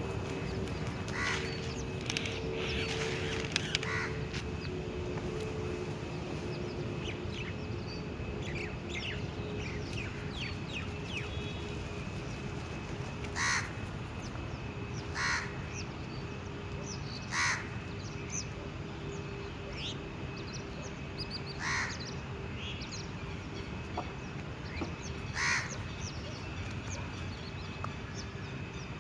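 Birds calling in woodland: a series of short loud calls every two to four seconds, most of them in the second half, over many faint chirps from small birds and a thin steady high whine.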